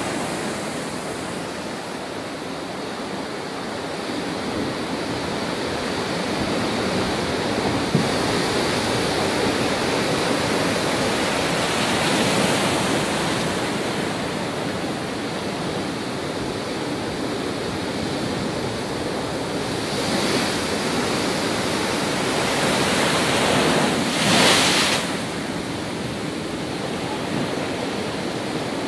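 Steady rushing water, a continuous wash of noise that swells now and then, most strongly for about a second near the end.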